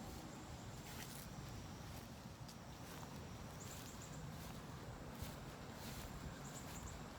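Faint birds chirping outdoors: two short runs of quick high chirps, one a little past halfway and one near the end. Beneath them are a steady low rumble and scattered soft clicks of footsteps while walking.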